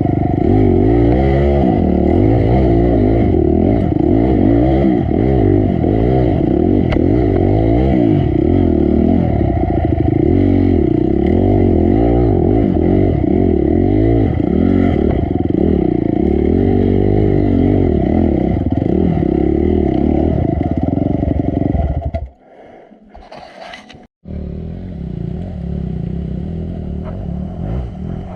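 Dirt bike's single-cylinder four-stroke engine revving up and down continuously as it works over rough ground, with clattering from the bike. About 22 seconds in the sound drops away for roughly two seconds, then the engine is heard again, lower and steadier.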